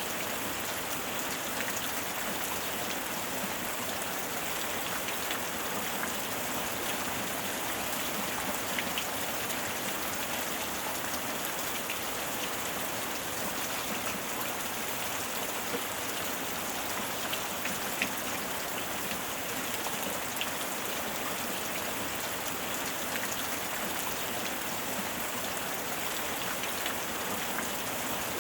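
Steady rain falling on a surface, with scattered individual drops ticking now and then.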